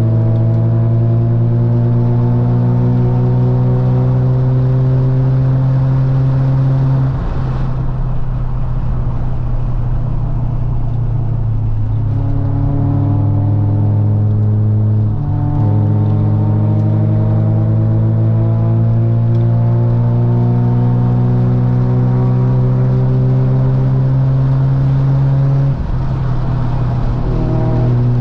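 Mazda FC RX-7's rotary engine pulling under load on a twisty road. Its pitch climbs slowly, then falls back abruptly about four times as the throttle comes off or it changes gear, and for a few seconds in the middle the engine note drops under road noise.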